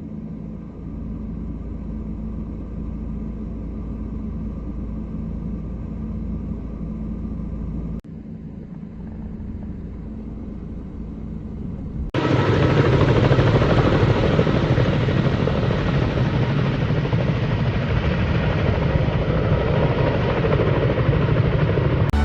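Steady machine drone with a low hum, broken by two abrupt cuts; from about twelve seconds in it becomes louder and noisier.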